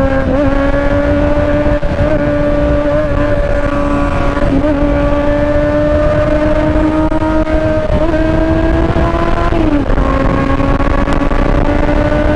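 Motorcycle engine running at high revs, its pitch creeping steadily upward, dipping sharply about ten seconds in, then climbing again.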